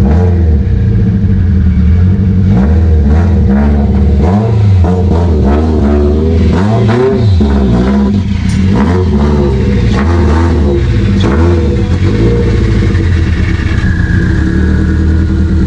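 Car engine running at a steady idle, blipped up and down in repeated short revs through the middle stretch, with sharp clicks among the revs, then settling back to idle.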